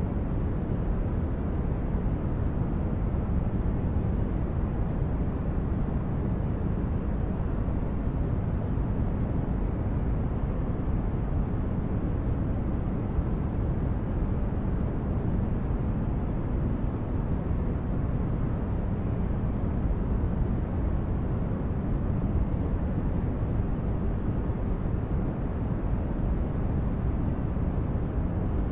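Steady low rumbling noise of a sci-fi spaceship ambience: a deep hum like an engine drone, heaviest in the bass and thinning toward the highs, unchanging throughout.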